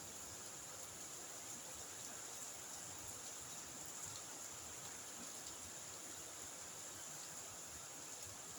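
Faint outdoor night ambience: a steady, high-pitched insect drone over a soft hiss.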